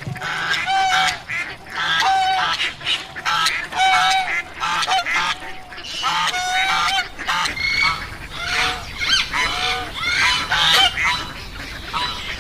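Several waterfowl calling over and over, many short calls overlapping one another.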